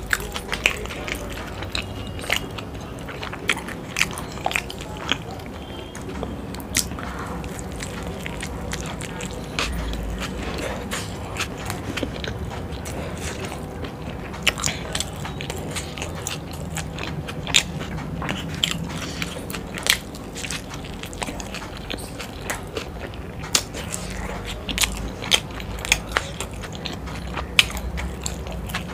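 Close-miked chewing of a mouthful of stuffed flatbread roll: wet mouth smacks and sharp clicks at irregular intervals, a few each second, without a pause.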